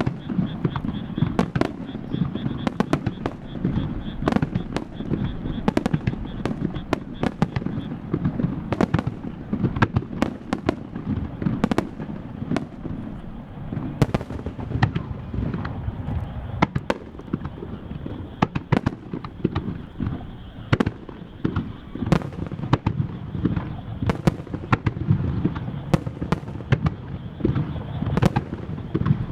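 Starmine fireworks barrage: dozens of aerial shell bursts and cracks fired in rapid, irregular succession over a continuous rolling rumble of reports.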